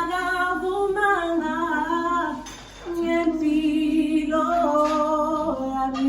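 A woman's voice singing a slow gospel song a cappella in long held, drawn-out notes, with a short breath break about two and a half seconds in.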